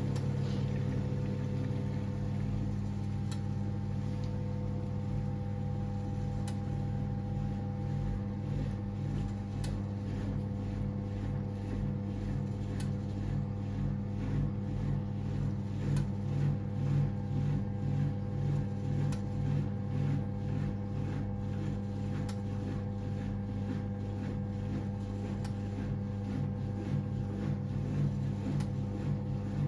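1978 Siemens WA4600 washing machine running mid-programme: a steady motor hum, with a regular ticking through the middle stretch.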